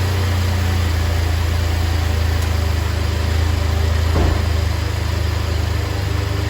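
2015 GMC Canyon's 3.6-litre V6 idling steadily just after a cold start, with no misfire heard: it sounds good so far. A brief thump about four seconds in.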